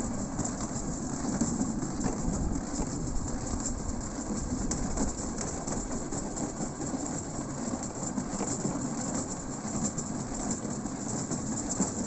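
Steel wheels of a pedal rail-cycle draisine rolling along the track: a steady rolling rumble with a few light clicks.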